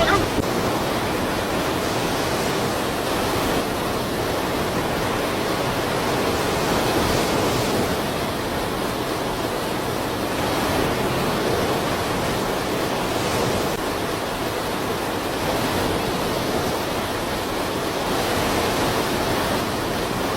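Steady rushing of water: a dense, even noise that holds at one level without letting up.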